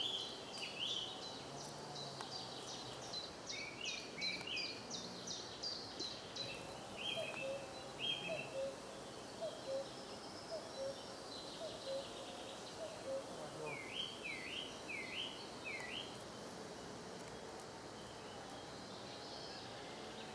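Songbirds singing and calling over a steady outdoor background: a busy run of quick high chirps in the first half, then four downward-swooping notes a little past the middle. A fainter low note repeats about twice a second in between.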